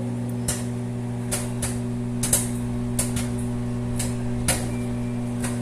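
Popcorn kernels popping in a paper bread bag inside a running microwave oven: about ten sharp, irregular pops over the oven's steady hum.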